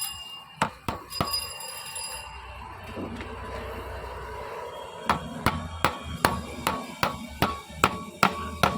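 Hammer striking the metal parts of a marble cutting machine during a gearbox repair, each blow ringing briefly. A few separate blows come first, then a steady run of about two to three blows a second from a little past halfway.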